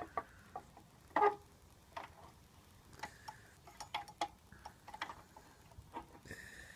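Scattered light clicks and taps of a Hoover Senior upright vacuum cleaner being handled, with a louder knock about a second in.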